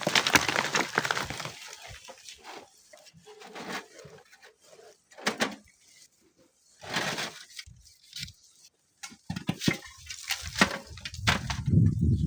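Sand and stones crumbling and breaking loose from a dry sand cliff face, heard as irregular crunching and cracking with short pauses. A low rumble builds near the end.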